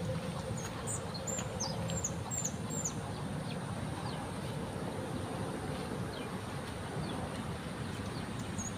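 A bird chirping: a run of short, high chirps in the first couple of seconds and a few scattered ones later, over a steady outdoor background with a faint high insect drone.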